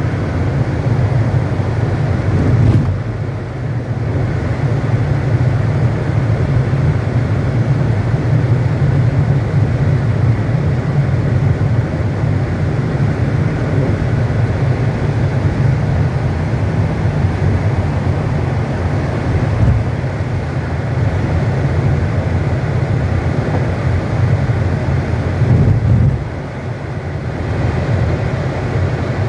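Steady road and engine noise heard inside a moving car's cabin, dipping briefly about three seconds in and again near the end.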